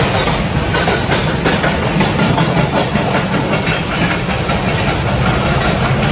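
Container freight train wagons running past at speed: a loud, steady rush of steel wheels on the rails, with faint irregular clicks as the wheels cross rail joints.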